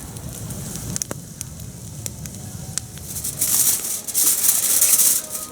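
Finnish candle campfire (a log burning upright from its core) crackling with scattered sharp pops over a steady hiss. About three and a half seconds in, a louder stretch of high hiss lasts nearly two seconds.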